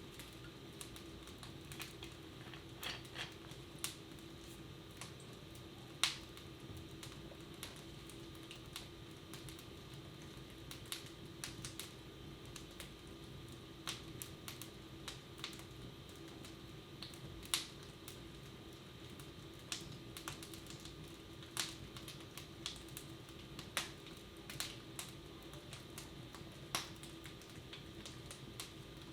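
Wood fire in a fireplace crackling: sharp, irregular pops and snaps at uneven intervals, a few louder ones standing out, over a steady low household hum.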